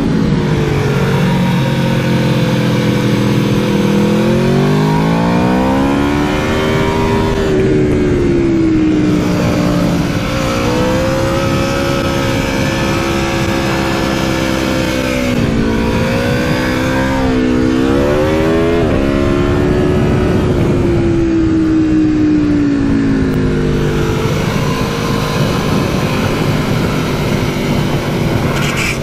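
Aprilia Tuono V4 motorcycle's V4 engine revving hard, heard onboard at speed with wind noise. The pitch drops at the start, climbs steadily over a few seconds, swings through several quick drops and rises about halfway through, then falls again later, as the bike is accelerated and shifted through the gears.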